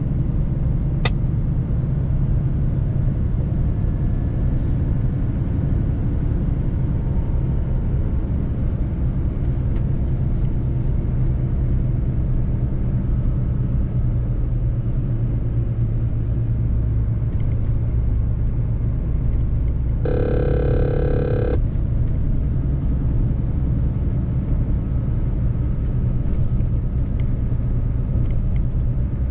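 Mercedes-Benz truck on the road, a steady low rumble of engine and tyre noise. About two-thirds of the way through, a pitched tone sounds for about a second and a half, and a sharp click comes about a second in.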